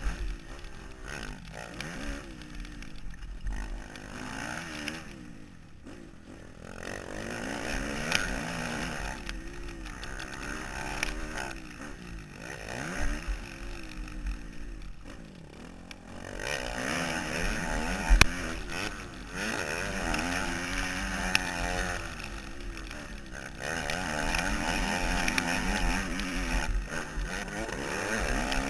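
Motocross dirt bike engine revving up and down repeatedly as it is ridden, heard from a helmet camera with wind noise over the microphone. A single sharp knock about two-thirds of the way through.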